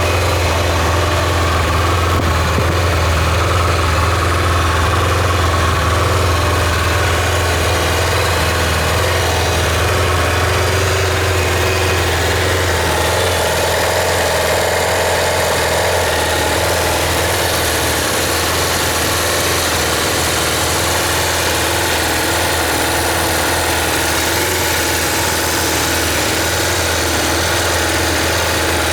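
Kawasaki GPZ550 (ZX550A) air-cooled inline-four engine idling steadily.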